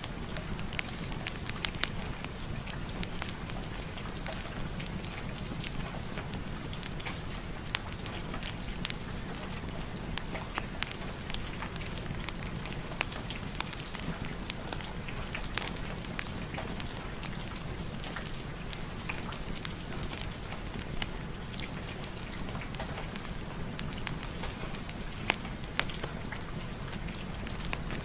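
Steady rain mixed with a crackling fireplace fire: a constant hiss over a low rumble, dotted with scattered sharp pops.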